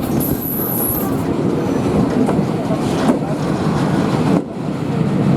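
Steam-hauled passenger train running along the track: a steady rumble of wheels and carriages, with a thin high-pitched whine during the first second.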